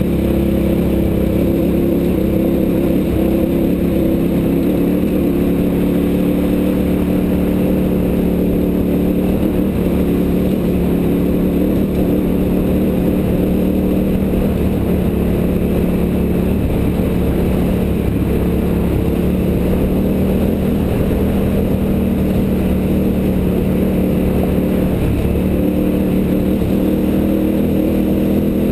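Motorcycle engine, the V-twin of a KTM 990, running at a steady cruise on a gravel road, with a steady low rumble of wind and road noise underneath.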